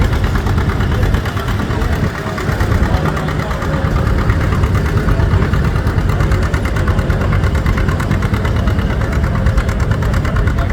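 John Deere AR's two-cylinder engine pulling hard under load, running steadily as the tractor drags the pulling sled slowly along.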